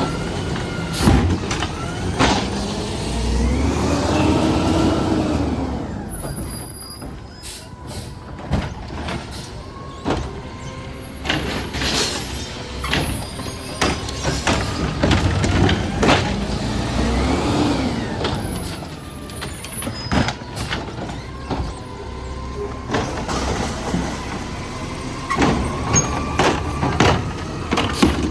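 Garbage truck collecting recycling carts. Its engine revs up and falls back twice as the hydraulics work, with repeated clanks and knocks of carts against the truck.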